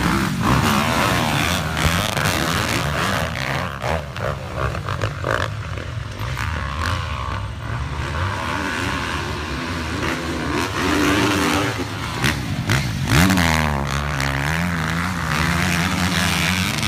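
Motorcycle engine running and revving, its pitch rising and falling. The revs climb sharply about twelve seconds in, then waver at a higher pitch.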